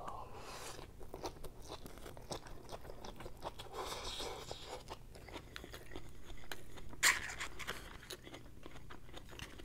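Close-miked eating sounds: a mouthful of noodles slurped in from chopsticks, then chewing with many small wet clicks and smacks. There is one sharper, louder click about seven seconds in.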